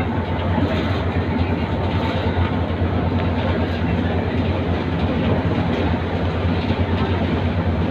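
Steady low rumble of a moving city bus heard from inside the cabin: engine and road noise, even throughout.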